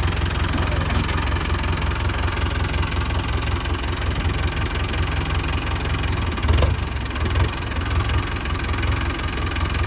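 Mahindra Arjun Novo 605 DI tractor's four-cylinder diesel engine running steadily, with a brief louder knock about six and a half seconds in.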